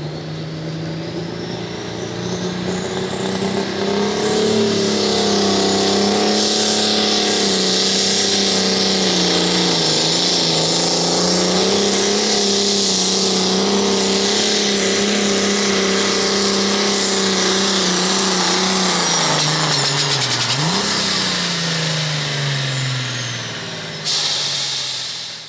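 Super stock pulling tractor's turbocharged diesel engine at full throttle down the track. A high turbo whistle rises as the engine builds over the first few seconds, the engine pitch holds steady, and then it falls off over the last few seconds as the tractor slows at the end of the pull.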